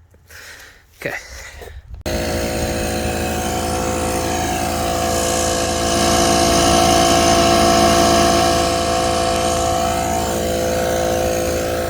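An engine or motor cuts in abruptly about two seconds in and runs steadily at a loud, even pitch, swelling slightly in the middle.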